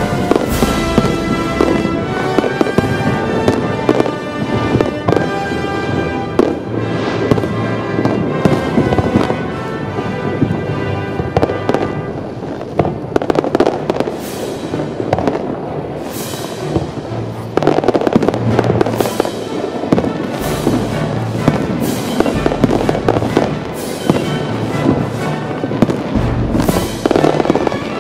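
Fireworks shells bursting in rapid succession: many sharp bangs, with crackling tails that get denser in the second half. Music plays underneath.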